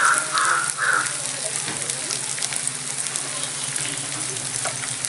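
Onion and spice masala sizzling steadily in hot oil in an aluminium kadhai, with a few light taps near the end.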